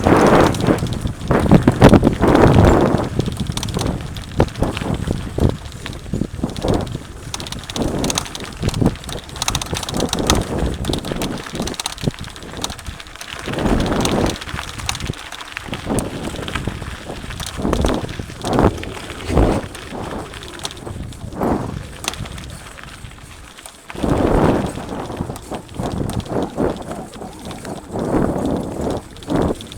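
Mountain bike ridden over a rough dirt trail: irregular knocks, clatter and rattling of the bike over bumps, with swells of rushing wind noise on the microphone.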